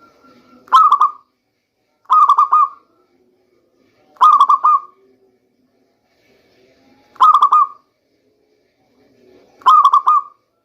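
Local zebra dove (perkutut) cooing: five short, rolling, trilled coo phrases, spaced one and a half to three seconds apart.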